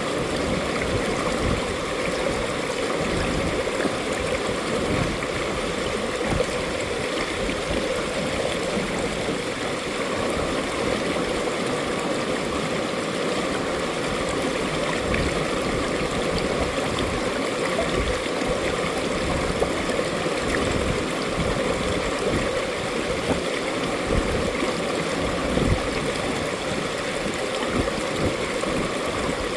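Mountain valley stream flowing over rocks, a steady rushing and gurgling of water.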